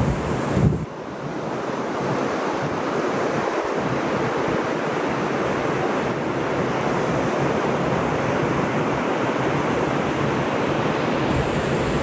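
Ocean surf washing onto the beach in a steady, continuous rush. Wind buffets the microphone at the start and cuts out about a second in.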